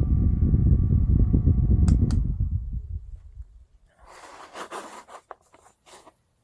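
Small rechargeable JISULIFE desk fan running, its airflow buffeting the microphone with a low rumble over a faint motor whine. Two clicks come about two seconds in, the whine stops and the rumble dies away as the blades spin down. Rustling and scraping from handling follow.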